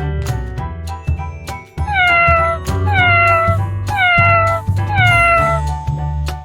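Domestic cat meowing four times, about once a second, each meow falling in pitch, over upbeat children's background music.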